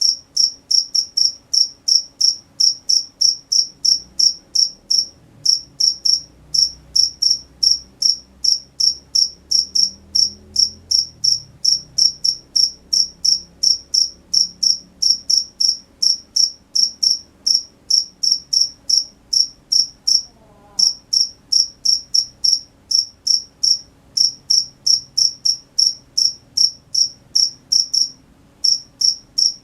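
Cricket chirping in a steady, even rhythm of high-pitched chirps, about three a second, breaking off briefly a few times.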